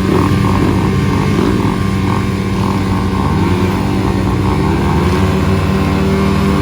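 Motocross dirt bike engines running, their pitch wavering up and down as the throttle opens and closes.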